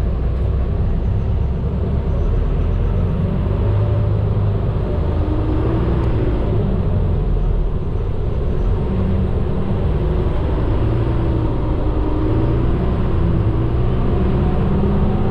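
Medium bus driving, heard from inside the driver's cabin: a steady low engine and road rumble whose engine tone shifts slightly in pitch as it goes.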